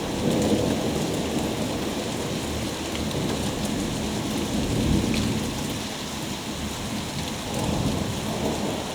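Summer thunderstorm: a long roll of thunder rumbles over steady rain. The rumble ebbs somewhat after the middle and swells again near the end.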